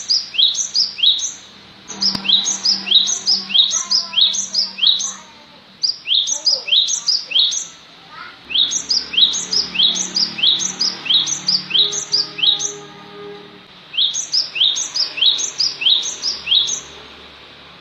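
Gelatik batu (cinereous tit) calling: a sharp, quickly falling whistled note repeated about three times a second, in five bouts of a few seconds each with short pauses between.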